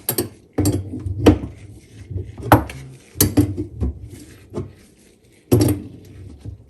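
Adjustable wrench clinking and scraping on the metal nut of a faucet water supply line as it is worked loose, a handful of sharp metal clicks about a second apart over low handling rumble.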